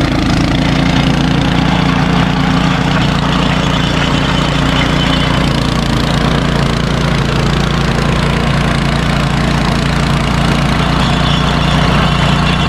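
An engine running steadily at an even speed with a constant low hum.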